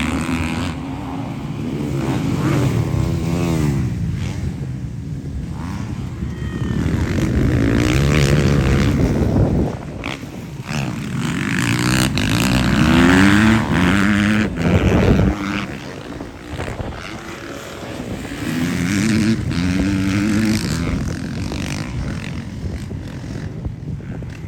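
Motocross bike engines revving, their pitch climbing and dropping again and again as they accelerate and shift.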